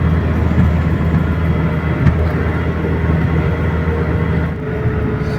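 GAZelle truck heard from inside the cab while driving: a steady engine drone with a thin steady whine over it, which the driver puts down to the fan. The drone eases slightly about four and a half seconds in.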